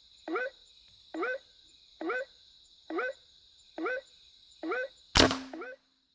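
White-breasted waterhen (ruak-ruak) calls: a short rising 'kwak' repeated evenly about once a second, over a steady high insect trill. About five seconds in comes a single sharp air-rifle shot, the loudest sound, and the calls go on after it.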